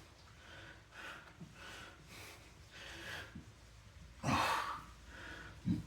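A man breathing hard and fast, out of breath from intense exercise, with a run of quick breaths in and out. About four seconds in comes a louder, voiced exhale, and a short voiced breath comes near the end.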